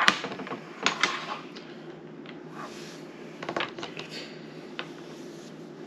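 Domino tiles clicking against each other and on a table as they are handled and played: a few sharp clicks in the first second, more around three and a half seconds in, then one more near five seconds.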